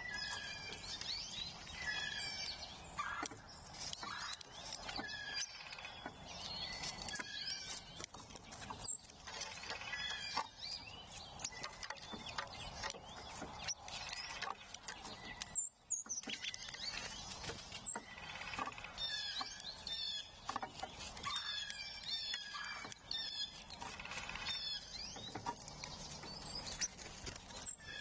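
Several wild songbirds singing and chirping, short overlapping phrases repeating throughout over a steady outdoor background hiss.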